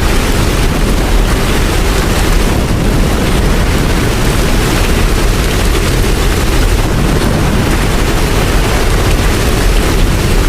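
Steady rain, a dense even hiss with a deep rumble underneath and no separate drops, strokes or chimes standing out.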